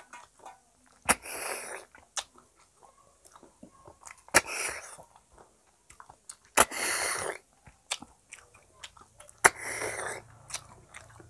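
Close-miked eating by hand: a person chewing a mouthful of rice and curry. Four times the chewing is broken by a sharp lip smack followed by a short breathy sucking sound, with soft wet chewing ticks in between.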